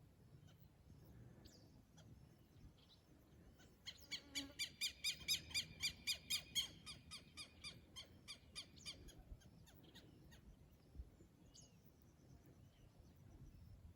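Southern lapwing (quero-quero) giving a fast run of harsh, scratchy calls, about four a second, that slows and fades after a few seconds, with a few faint single calls afterwards.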